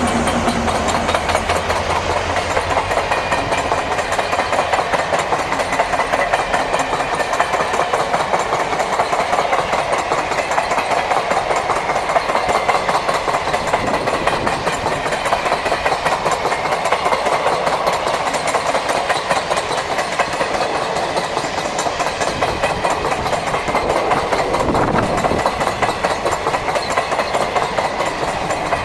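Long parcel-van train rolling past at speed, its wheels clattering steadily over the rail joints. A low diesel locomotive engine drone fades out in the first few seconds.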